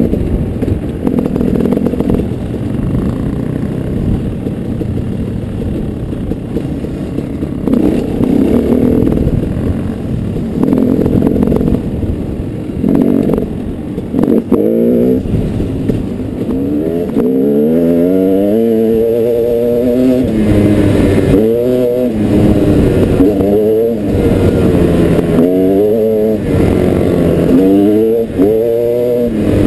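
Dirt bike engine running under varying throttle. For the first half it is rough and noisy, with no clear pitch. From about halfway on it rises in pitch and drops back again and again.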